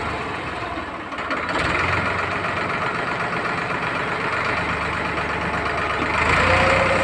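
Tractor engine running steadily, growing louder about a second and a half in and again near the end.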